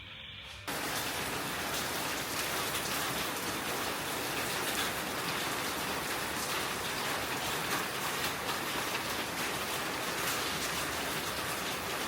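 Steady rain falling, starting suddenly just under a second in.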